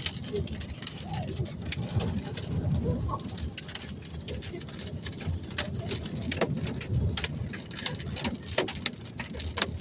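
Inside a car: a steady low rumble of engine and road noise, with scattered raindrops ticking on the car body and windows.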